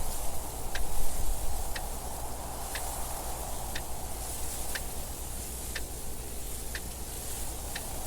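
A clock ticking steadily about once a second over continuous wind noise. The wind swells briefly about a second in.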